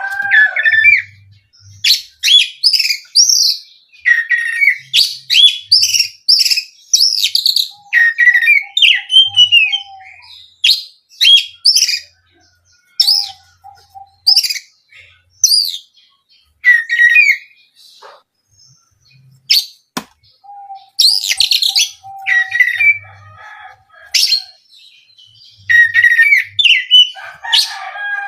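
Oriental magpie-robin singing: a run of loud, varied phrases of sliding whistles and chirps with short pauses between them, and now and then a quick string of lower repeated notes. A single sharp click sounds about two-thirds of the way through.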